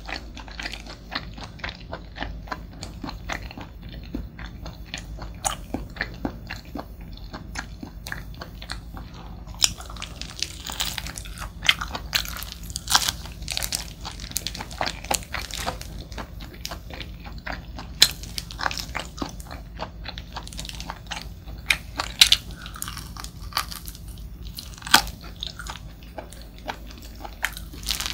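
Close-miked eating of braised pig's trotters (jokbal): sticky, wet chewing with many small mouth clicks and a few sharper crunches now and then.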